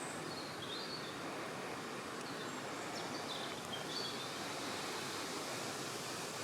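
Steady rustle of wind through woodland trees, with a few short, high bird chirps in the first second and again around three to four seconds in.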